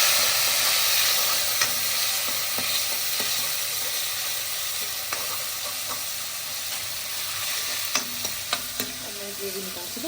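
Onion-and-tomato gravy sizzling in a hot karahi with water just poured in, the hiss easing off gradually. A few sharp clicks of a spoon against the pan.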